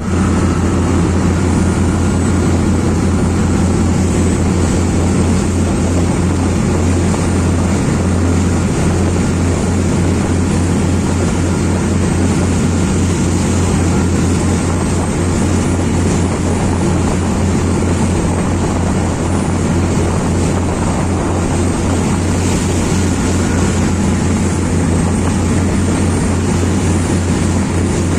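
Boat engine running steadily, with a fast low pulsing throb under a steady rushing noise.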